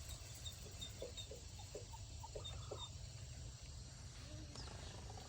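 Faint, short clucks from backyard chickens, about seven in the first three seconds, with a few tiny high chirps and a steady low rumble underneath.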